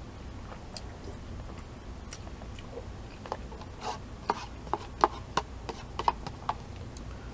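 Close-up eating sounds of someone chewing udon noodles: a run of short mouth clicks and smacks, two or three a second, mostly in the second half.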